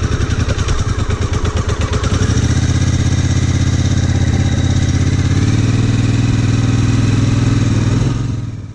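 2002 Triumph Bonneville America's parallel-twin engine running, first with an uneven idle-like pulse, then steadier and higher in two steps as it is revved or pulls away. The sound fades out near the end.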